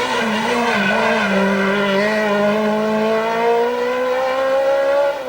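A rally kit car's engine under hard acceleration. Its pitch dips briefly about a second in, then rises steadily through the rev range, and drops again right at the end.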